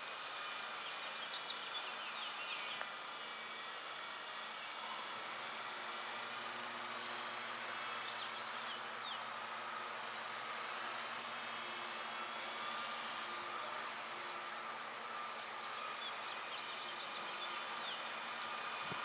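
Small electric Blade 120 SR RC helicopter hovering, its rotor and motor making a steady, insect-like buzzing whine. Faint high ticks come and go over it.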